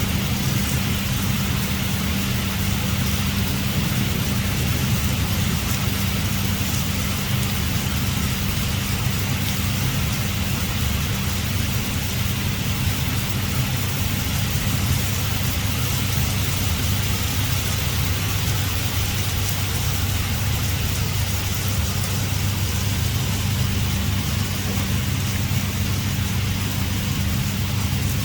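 Heavy rain falling steadily, a constant hiss with a steady low hum underneath.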